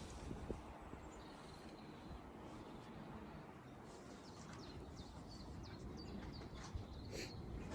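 Faint, scattered bird chirps over a low, steady outdoor background hum, with the chirps clustering in the second half.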